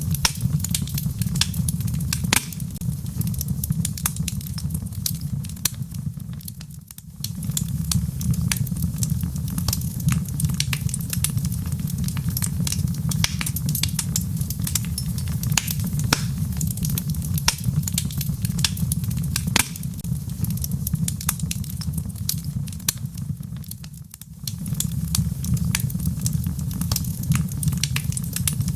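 Wood logs burning in a fireplace: a steady low rumble of the flames with frequent sharp crackles and pops from the wood. The rumble fades briefly twice.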